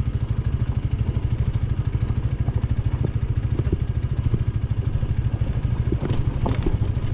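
AKT GP 180 motorcycle engine running steadily at an even speed, a rapid string of firing pulses, with a few short clicks about six seconds in.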